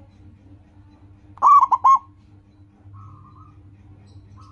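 Zebra dove (perkutut) cooing: one short song phrase about a second and a half in, a rising note followed by three quick notes. A faint held note near the end leads into the next phrase.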